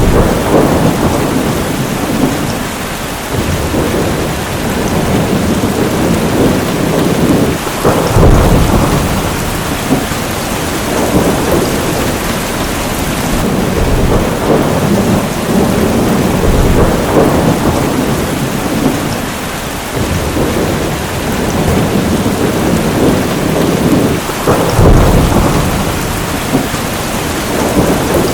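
Heavy rain falling steadily while thunder rumbles in long swells, with two sharper, louder claps about a third of the way in and near the end.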